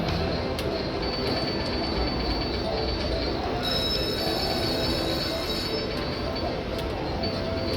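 Casino floor din from slot machines: a steady wash of noise with electronic tones ringing over it. Midway, a brighter, high-pitched electronic chime sounds for about two seconds.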